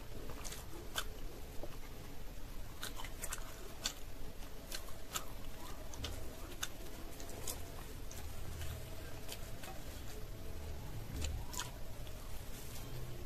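Close-miked chewing of koraishutir kochuri (deep-fried, pea-stuffed flatbread), with scattered wet mouth clicks and smacks.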